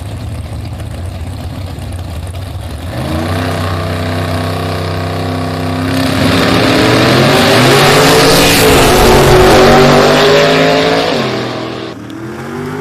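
Drag race car's engine making an index pass: it is brought up to steady high revs about three seconds in, then gets much louder about six seconds in as the car launches down the track. The pitch climbs and dips through the gear changes for about five seconds, then cuts off near the end as the throttle is lifted at the finish.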